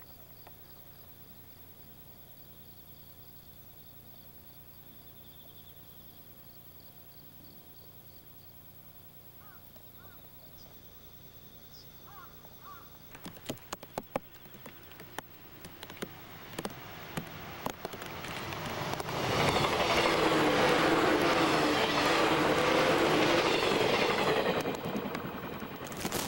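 An electric train on the Joban Line approaching and passing. First comes a quiet stretch with faint chirps. About halfway through, scattered rail clicks begin and build into a loud, steady rush of wheels on rails lasting about six seconds, which falls away near the end.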